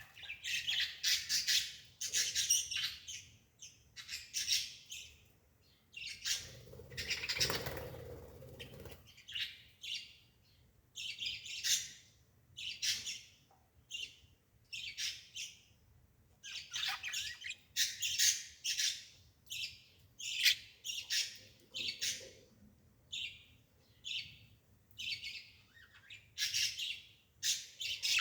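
A bird chirping repeatedly in short, high-pitched calls, with one longer, harsher sound about seven seconds in.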